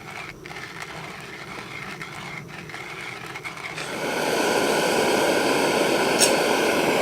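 Camp stove burner lighting about four seconds in and then running with a loud, steady roar, heating water for coffee.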